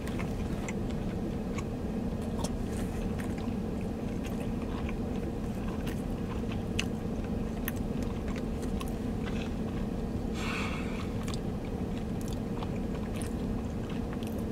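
A person chewing sushi rolls close to the microphone, with many small wet clicks and smacks over a steady low hum. There is a short hiss about ten seconds in.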